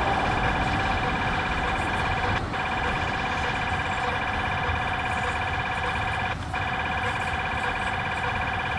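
Freight train wheels squealing as the cars roll through switches and curves: a steady, high, ringing squeal of several held tones over the low rumble of the train, dipping briefly twice.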